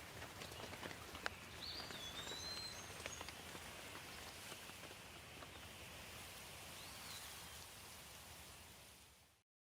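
Steady rain with scattered drips and a few brief bird chirps. Near the end it fades out to silence.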